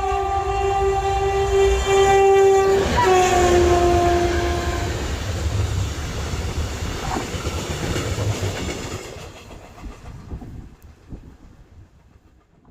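A train passing at speed while its locomotive sounds a long horn blast. The horn's pitch drops about three seconds in as the train goes by, and the horn stops a couple of seconds later. The rumble of the wheels on the rails then fades away.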